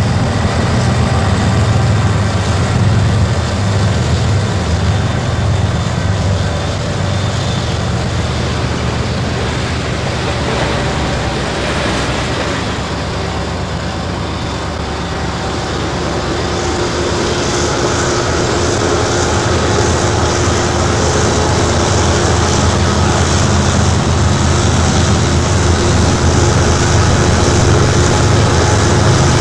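A pair of GE ES44DC diesel-electric locomotives pulling a freight train past, their engines running with a steady low drone. From about halfway on, a louder hiss and rumble of the freight cars rolling over the rails joins in.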